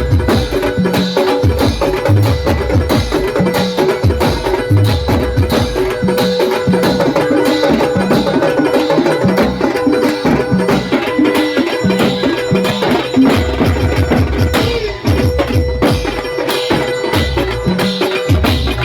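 Loud traditional Maharashtrian percussion music for lezim dancing. Drums beat a steady, driving rhythm under sharp clacking strokes, with a held tone running through it.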